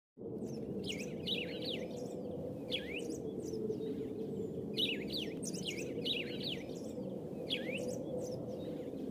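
Birds chirping in repeated clusters of quick, short, downward-sweeping calls, about one cluster a second, over a steady low background hum.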